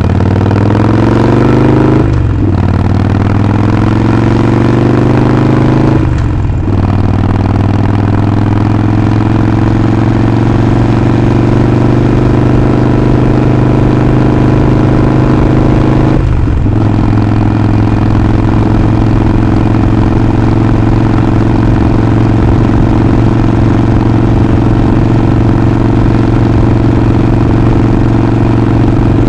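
Harley-Davidson Sportster 48's 1200 cc air-cooled V-twin accelerating through the gears: the engine note rises, dips briefly at three upshifts (about two, six and a half, and sixteen seconds in), then settles into steady cruising.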